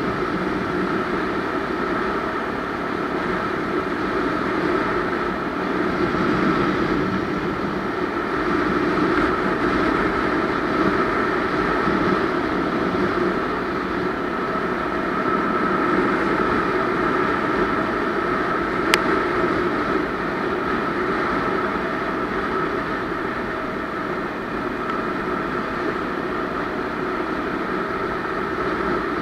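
Honda Tornado 250's single-cylinder four-stroke engine running steadily, with a constant whine and no revving. A single sharp click about two-thirds of the way through.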